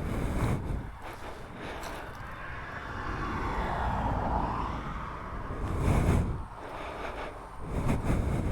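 Small motorcycle engine running under way, its note swelling and easing about halfway through, with wind buffeting the microphone in heavy low gusts near the end.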